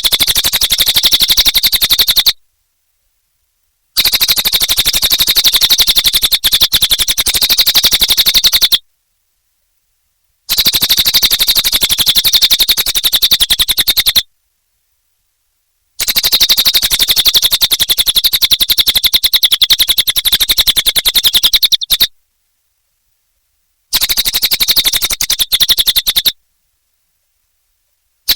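Cililin songbird singing in loud, very fast chattering trills, high-pitched and strongest in the upper range. The song comes in five bursts of about two to six seconds, each cut off by a moment of dead silence.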